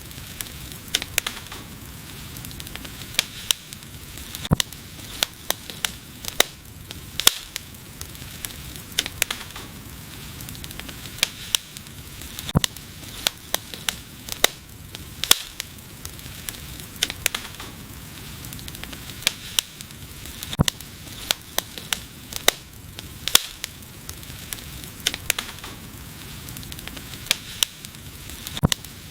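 Wood fire crackling: irregular sharp pops, several a second and some much louder than others, over a steady hiss.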